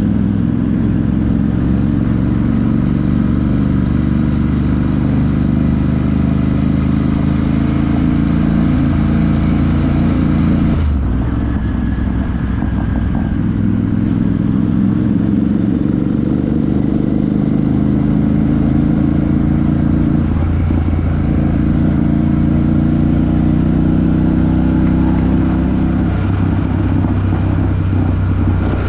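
Royal Enfield Super Meteor 650's parallel-twin engine and exhaust while riding, running steadily. The engine note breaks and resettles about eleven seconds in, and again twice later.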